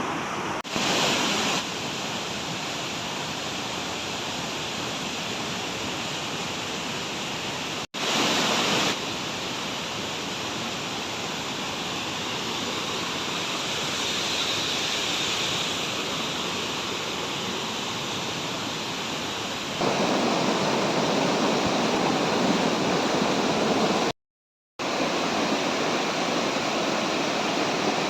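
Waterfall rushing, a steady roar of falling water. It jumps abruptly in level a few times and cuts out briefly twice, once for about half a second near the end.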